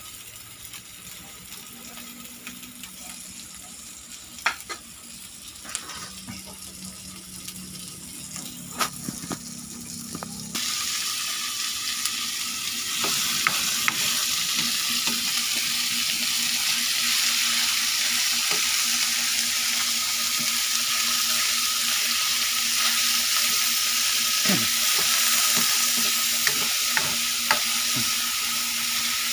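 Onions and garlic frying in oil in a wok, stirred with a wooden spatula that taps and scrapes the pan. About ten seconds in, the sizzle jumps louder and brighter, with chopped tomatoes now frying in the wok.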